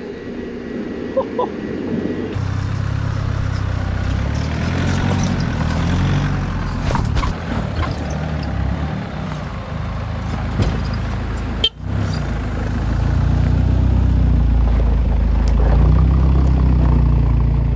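Four-wheel-drive vehicle's engine running low and steady as it drives along a rough dirt track, with a few short knocks and a brief break about two thirds of the way through.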